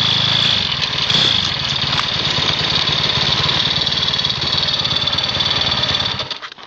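Mini bike's small engine running at a steady idle with a fast even pulse, then cut off about six seconds in.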